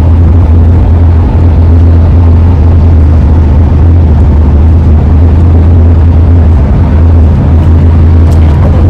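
Roof rack on a Ford E-350 van howling in the wind at freeway speed: a loud, steady low drone over the driving noise.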